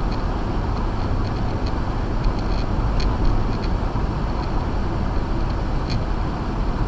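Acura MDX driving on a snow-covered road on Sumitomo Ice Edge winter tires: a steady rumble of tyre and road noise with the engine underneath. Faint, scattered ticks sound over it.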